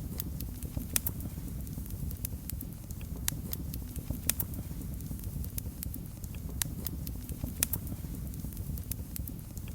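Wood fire burning in a fireplace: a steady low rumble of flames with sharp, irregular crackles and pops several times a second.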